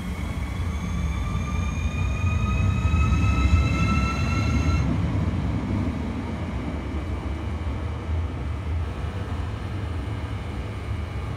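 Trenitalia Intercity passenger coaches rolling past along the platform: a steady rumble of wheels on rail, loudest a few seconds in. Over the first five seconds there is a rising whine that stops suddenly.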